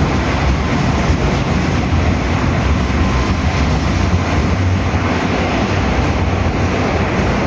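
Moscow Metro 81-740/741 "Rusich" train running at speed through a tunnel, heard from inside the carriage: a steady, loud rumble with a deep hum underneath.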